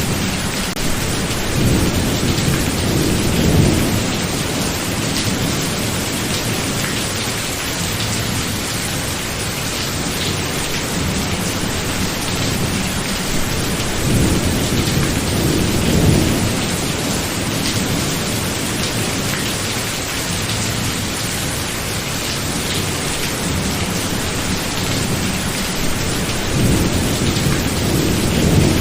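Steady rain with thunder rolling three times: a low rumble about two seconds in, another about halfway, and a third near the end.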